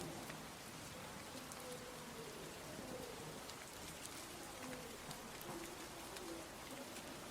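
Steady rain falling, with many separate drops ticking on nearby surfaces. Short faint low tones come and go underneath the rain.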